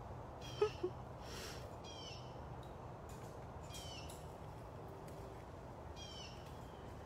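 A bird calling repeatedly, each call a short, high, falling note, one every one to two seconds. Two quick, louder knocks come about half a second in.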